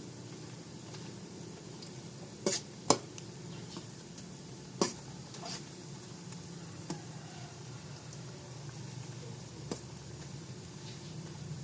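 Saba banana fries sizzling in hot oil, with a utensil clicking sharply against the pan a few times, loudest twice in quick succession about two and a half seconds in and again near five seconds.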